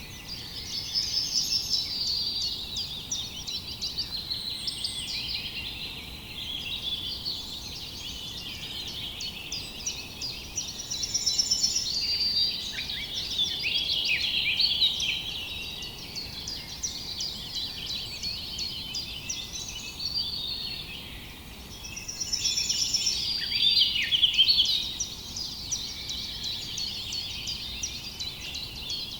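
Many small birds chirping and twittering at once, a dense chorus of quick high chirps and trills that swells louder several times.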